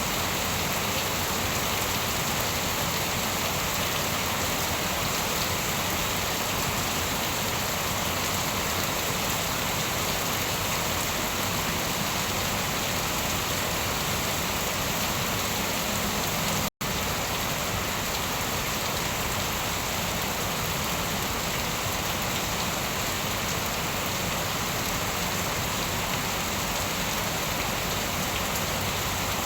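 Steady heavy rain falling, an even hiss of drops with no thunder. The sound cuts out for an instant about 17 seconds in, then carries on unchanged.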